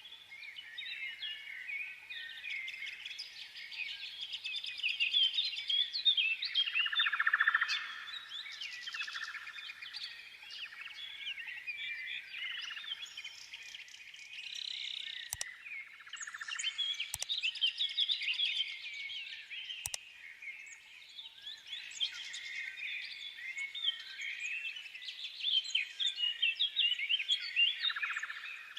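Many small birds chirping and twittering together in a dense, continuous chorus, with three sharp clicks in the middle.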